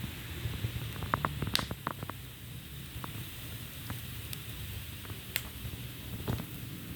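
Fire burning in a fire pit: a low steady rumble with scattered sharp crackles and pops, a quick cluster of them about a second in and single pops later on.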